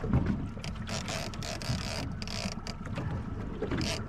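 Big-game trolling reel ratcheting with rapid clicks while a wahoo is being fought, over the low rumble of the boat and wind on the microphone.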